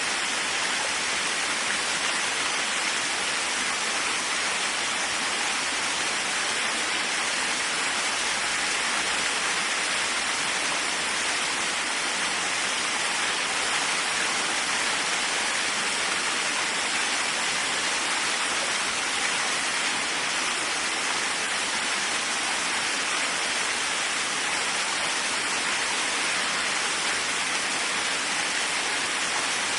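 Waterfall: water pouring and splashing in a steady, unbroken rush, strongest in the hiss range.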